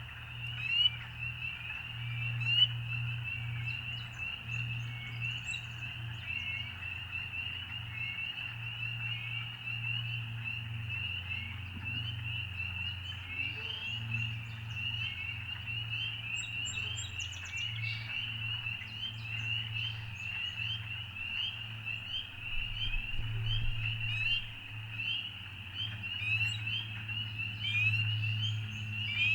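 Dense chorus of frogs, many short, high, slightly rising peeps overlapping without a break, over a low steady hum.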